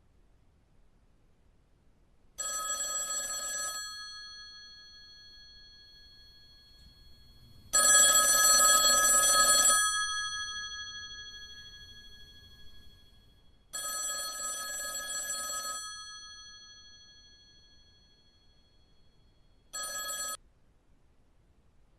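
Telephone bell ringing four times, each ring about two seconds long with a few seconds' gap between and the bell fading on after each ring. The second ring is the loudest, and the last ring is cut short after about half a second.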